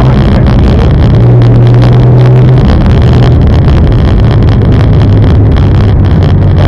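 Car engine running as the car drives slowly on a snowy road, heard from inside the cabin, with road noise; the engine note rises a little about a second in and settles back lower after about two and a half seconds.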